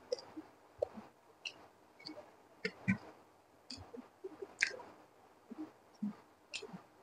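A person chewing egg fried rice eaten by hand: irregular short mouth clicks and soft squishy chewing sounds, a few every second.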